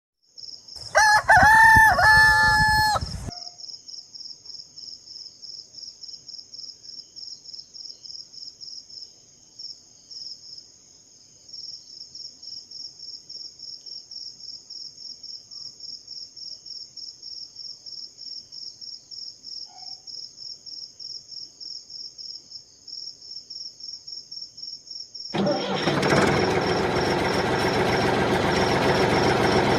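A rooster crows once near the start. A faint, high-pitched chirp then pulses about three or four times a second. Near the end a small engine starts suddenly and keeps running.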